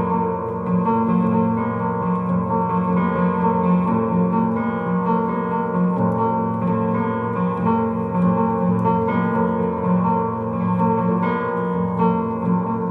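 Piano music: sustained chords over a steady low drone, with new notes struck about once a second.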